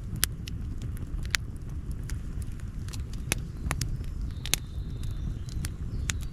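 Campfire burning, wood crackling with sharp, irregular pops over a low steady rumble of the fire. A faint thin high whistle sounds briefly a little past the middle.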